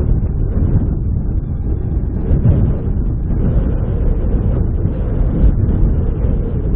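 Low, steady rumble of a sugar cane train's diesel-hydraulic locomotive running, with wind noise on the microphone.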